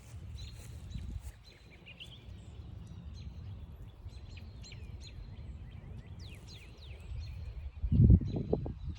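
Small songbirds chirping and calling, many short chips, over the low rumble and crunch of footsteps on a trail, with a cluster of louder low thumps about eight seconds in.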